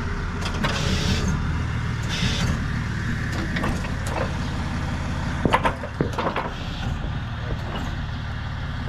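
Tow truck engine idling steadily, with two short hisses of air about one and two seconds in, and a few sharp metallic knocks around the middle.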